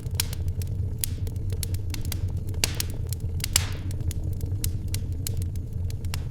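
Wood fire crackling, with irregular sharp pops over a low steady rumble; the loudest pop comes about three and a half seconds in, with a short hiss around it.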